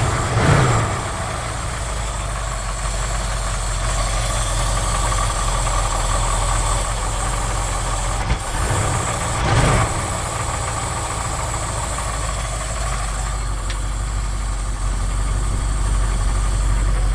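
1980 Ford F100's 302 V8 with a two-barrel carburetor idling rough and unevenly, running rich after being deliberately flooded on a warm start. The engine note swells briefly twice, about half a second in and again near ten seconds in.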